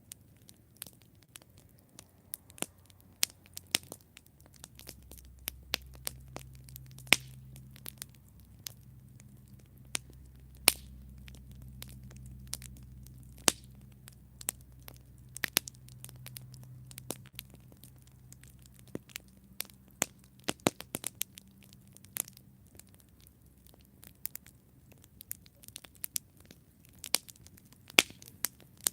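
Wood campfire crackling, with irregular sharp pops and snaps. A low hum sits underneath from about five seconds in until about twenty-two seconds.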